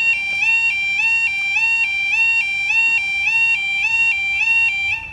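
Level crossing warning alarm sounding: an electronic two-tone warble that steps evenly back and forth between a lower and a higher note, a little under two cycles a second. It cuts off suddenly near the end.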